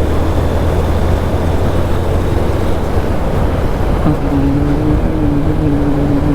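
Motorcycle under way: wind rushing over the microphone with the engine's low drone. About four seconds in, a steady higher tone joins.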